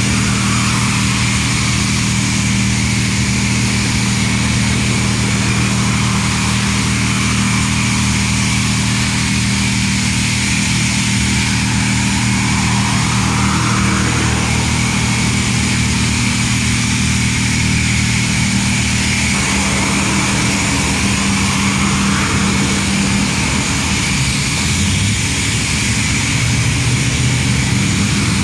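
Car-wash equipment running: a steady motor hum under a constant hiss, the hum changing pitch about two-thirds of the way through.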